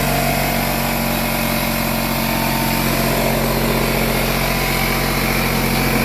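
Bostitch 6-gallon pancake air compressor running steadily after being switched on: a loud, unbroken motor-and-pump racket with a steady low hum, pretty loud.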